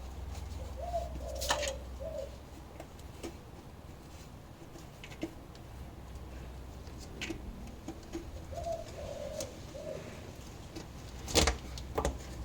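A dove cooing twice, a short three-note phrase each time. Scattered sharp clicks and knocks come in between, the loudest a knock near the end.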